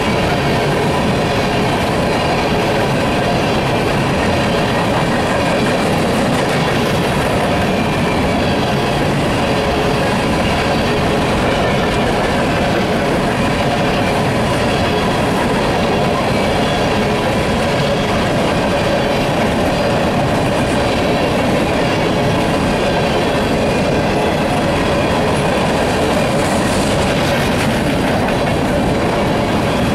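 Empty coal gondolas of a freight train rolling past, a steady rumble and clatter of steel wheels on the rails.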